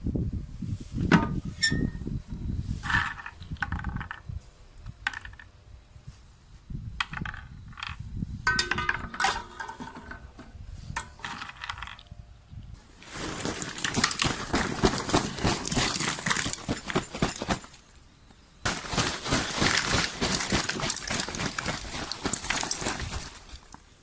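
Firewood and kindling being handled for a bonfire: scattered clinks and knocks, then two long stretches of dense crackling.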